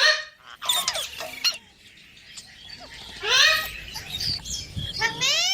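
Pet green parrot calling: rising squawks, one at the start, a longer one about three seconds in and another near the end, with short sharp chirps in between.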